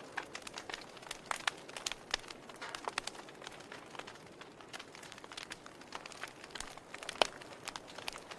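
Wood fire in a fireplace crackling: irregular snaps and pops of firewood over a low steady hiss of the flames, with one louder pop about seven seconds in.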